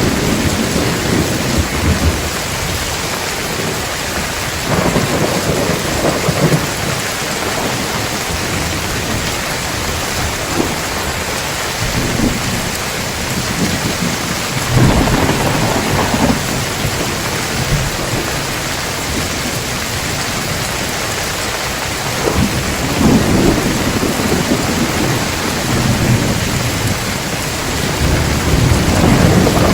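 Heavy rain falling steadily, with several rolls of thunder rumbling low over it; the strongest begins sharply about halfway through and others swell near the start, two-thirds of the way in and near the end.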